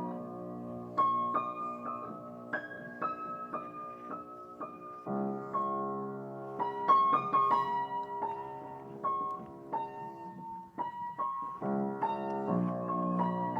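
Background piano music: a melody of struck notes over held chords, unhurried and gentle.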